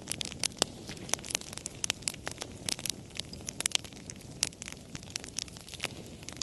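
Wood fire crackling: frequent irregular sharp pops and snaps over a low, steady rumble of burning.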